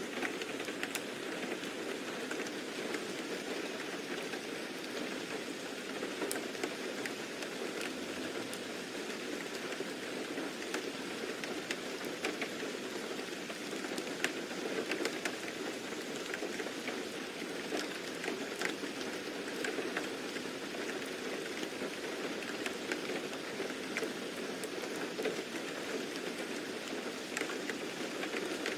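Steady rain with close droplet ticks and patter on a surface.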